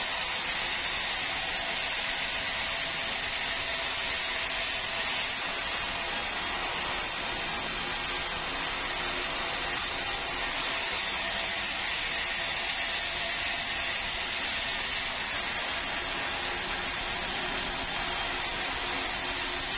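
Sawmill saw running steadily, an even hiss with a thin constant high whine over it.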